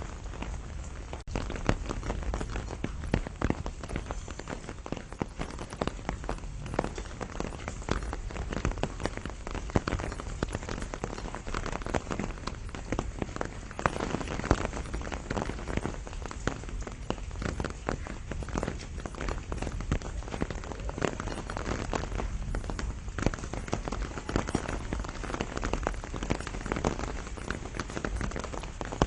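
Steady rain shower falling on a pomegranate tree, with a dense, irregular run of individual drop hits over an even hiss.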